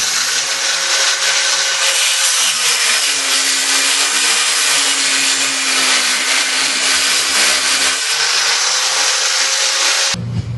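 Vibrating sander rigged as a mini lawnmower running with a dense, hissing buzz. It cuts off abruptly near the end.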